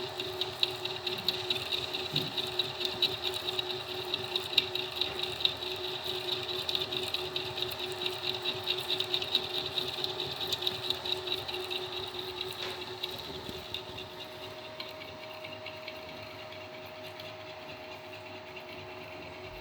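Home-built CNC milling machine cutting MDF with a compression wood end mill: a steady spindle and stepper-motor whine with a dense crackle of the cut. The crackle eases off about two-thirds of the way through while the machine keeps running.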